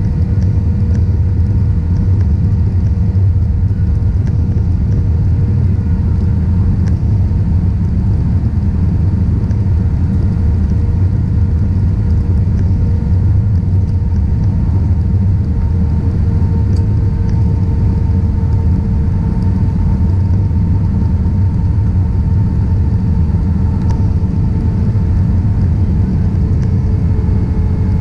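Steady, loud cabin noise inside an Airbus A320-200: a deep rumble of engines and airflow, with faint engine tones that drift slightly in pitch.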